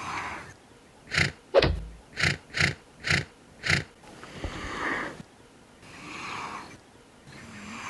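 Giraffe giving a run of short, sharp blows through the nose, six in under three seconds, one with a falling pitch, followed by three longer breathy exhalations.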